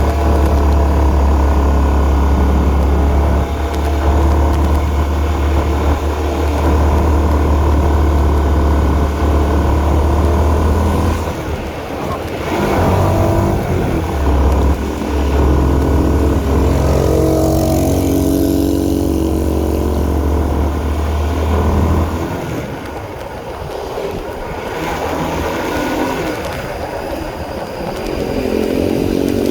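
Honda CB150R's single-cylinder engine running under way, its pitch rising and falling with the throttle and climbing again near the end. A heavy low rumble lies under it and drops away about two-thirds of the way through.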